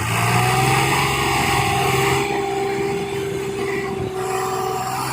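Tractor diesel engine running steadily, with a high whine held over the engine note.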